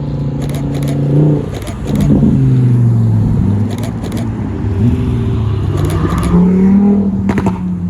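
Supercar engines moving slowly past in a line, a Lamborghini Huracán Sterrato's V10 among them, the revs dropping about a second and a half in, then rising and falling again with a climb near the end.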